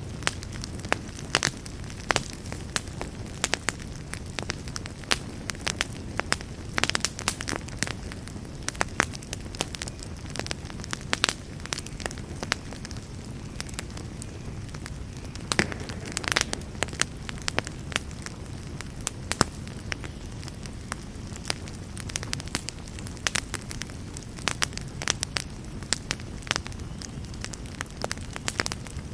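Campfire burning: a steady low rumble of flames with frequent irregular sharp crackles and pops, a few louder ones about 7 and 16 seconds in.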